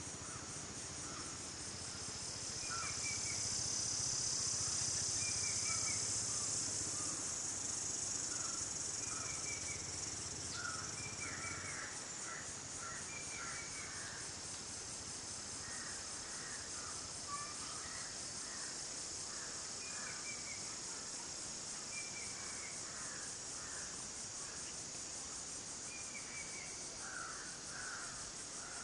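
A steady, high insect drone, louder in the first third, with birds calling over it: a short high note repeated about every two seconds, and bouts of chattering calls.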